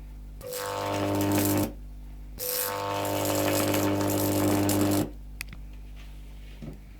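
Microwave oven transformer driving a high-voltage capacitor, with its current limiting removed, switched on twice, for about a second and then for about two and a half seconds. Each time it gives a loud mains buzz with a hiss on top and cuts off suddenly. A faint hum and a few small clicks come between and after.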